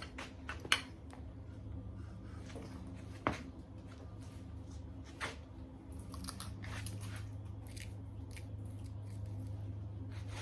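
Scattered metal clicks and creaks from a breaker bar and socket being worked against the crankshaft pulley bolt of a V8 engine. A sharp click comes about a third of the way in and another about halfway, over a steady low hum.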